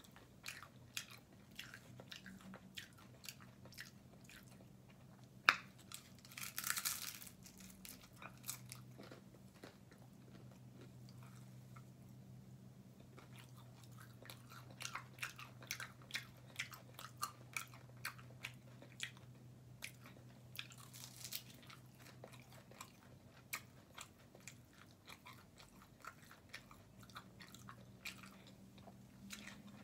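A person biting and chewing tacos: scattered short wet clicks and smacks, with a sharp click about five seconds in and a few louder crunchy bursts.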